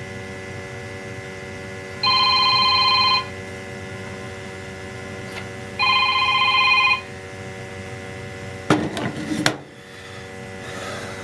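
A telephone ringing twice, each ring a warbling tone about a second long, over a steady hum. A short clatter follows near the end.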